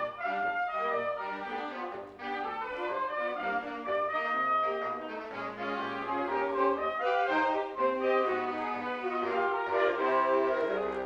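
Instrumental ensemble music with a brass sound, several parts playing moving melodic lines together.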